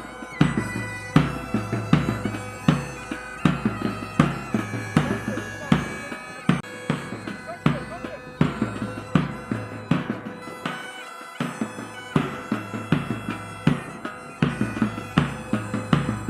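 Pipe band playing: bagpipes with a steady drone and melody over a regular drum beat, about three beats every two seconds.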